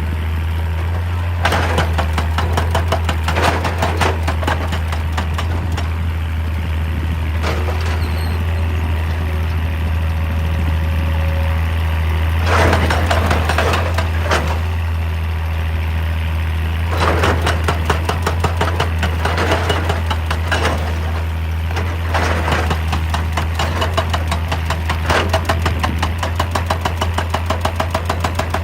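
Hitachi EX200 excavator's diesel engine running steadily, with several stretches of rapid, rhythmic hammering, many blows a second, from a hydraulic breaker working rock.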